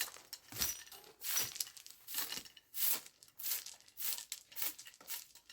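Repeated rustling, crinkling strokes, about one every two-thirds of a second, from something being handled or rubbed.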